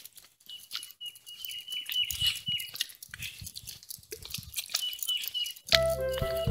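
A songbird calling with a high, even, slightly wavering note for about two seconds, then again briefly a few seconds later, over faint scattered clicks and rustles. Background music cuts back in near the end.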